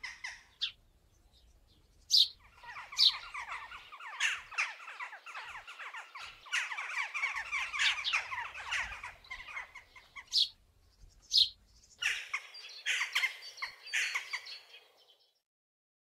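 Birds chirping in a dense, continuous chatter of quick calls, with a few louder sharp calls standing out; the chatter stops just before the end.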